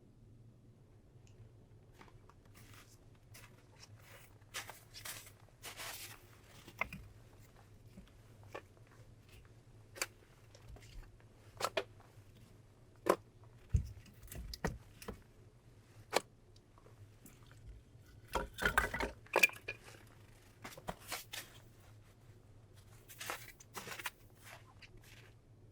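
Scattered crunching, tearing and rustling sounds with a few dull knocks, as of things being handled close by in a small room; the busiest, loudest stretch comes about two-thirds of the way through.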